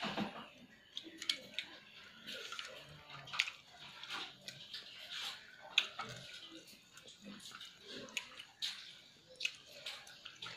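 Close-up wet chewing and lip-smacking of rice and curry eaten by hand, with irregular sharp smacks and clicks, and fingers mixing food on a steel plate in between mouthfuls.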